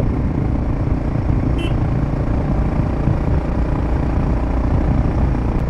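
Royal Enfield Himalayan 450's single-cylinder engine running through a Power Rage aftermarket exhaust with its dB killer fitted, a steady exhaust note while riding on the highway.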